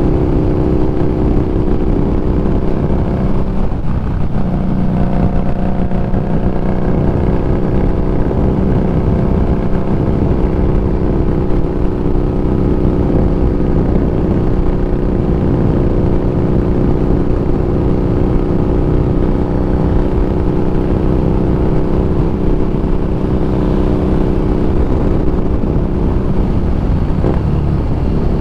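Harley-Davidson Street Rod 750's V-twin engine running steadily under way. Its pitch changes about four seconds in and again near the end.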